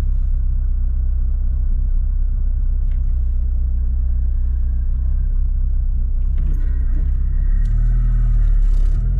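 Car engine idling, heard from inside the cabin: a steady low rumble that grows louder near the end.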